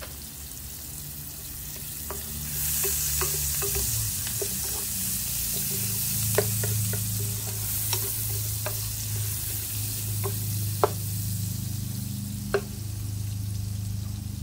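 Chopped onions sizzling in hot oil in a frying pan. The sizzle grows louder about two and a half seconds in as butter goes into the pan. A wooden spatula stirs and clicks against the pan.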